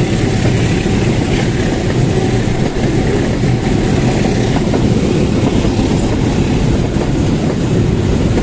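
Container freight train's flatcars rolling past close by: a loud, steady rumble of steel wheels on the rails.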